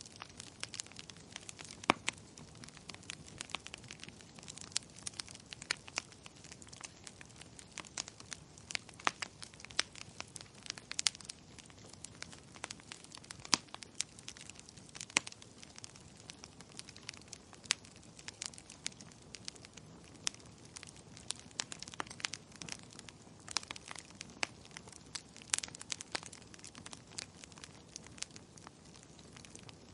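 Wood fire crackling in a fireplace: irregular sharp pops and snaps, several a second with an occasional louder crack, over a soft steady hiss.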